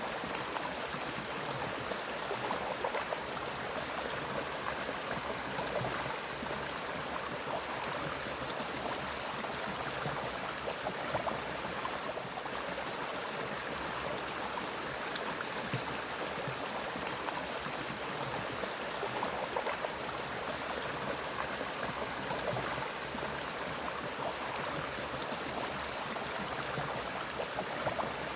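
Forest mountain stream flowing steadily over rocks, an even rushing and gurgling of water. A steady high-pitched tone sits above it throughout.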